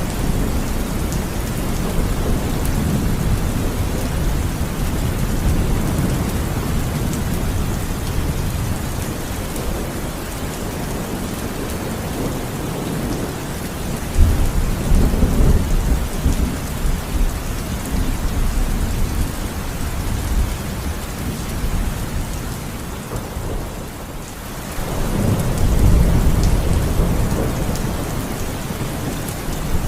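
Steady heavy rain with rolls of thunder. One thunder roll starts suddenly about halfway through, and another builds after a brief lull near the end.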